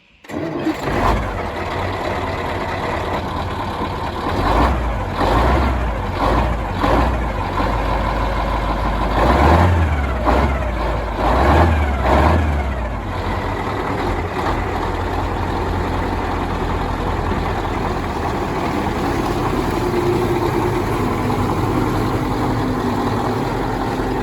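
KrAZ 255B truck's diesel engine running, blipped up in revs several times in quick succession for a few seconds, then settling to a steady run.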